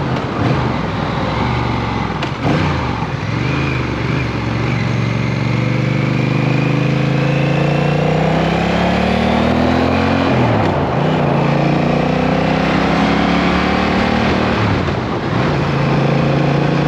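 Motorcycle engine pulling through the gears while riding: the revs climb steadily, drop at a gear change about ten seconds in, climb again and drop once more near the end, under steady wind and road noise.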